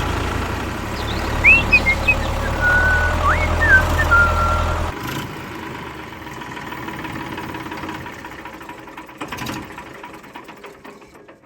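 An engine running steadily with a low rumble that cuts off suddenly about five seconds in, with a few short high chirps over it; a quieter clatter fades out after.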